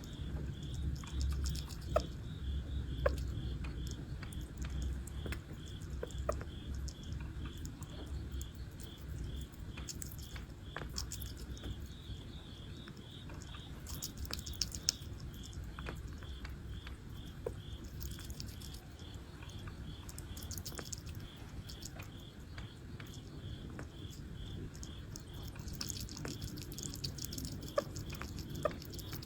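A high chirping that repeats about three times a second throughout, insect-like, with scattered small sharp clicks and crackles over a low rumble.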